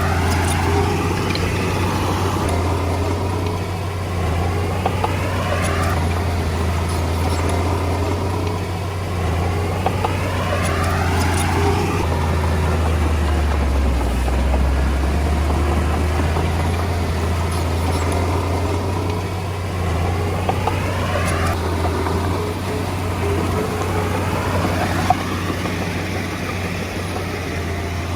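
Komatsu D20A bulldozer's diesel engine running steadily as the dozer works. A whine sweeps up and down several times, and the engine note drops briefly about halfway through.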